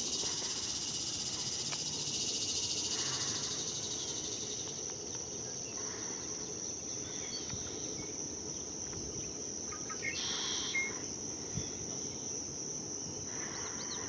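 Steady high-pitched insect trilling, louder in the first few seconds. A few brief bird calls come in about ten seconds in, and a run of quick chirps near the end.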